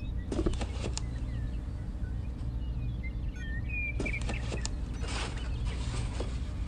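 Light clicks and taps of miniature bricks and a model roof being handled and set in place, over a steady low hum. Faint short bird chirps come through now and then.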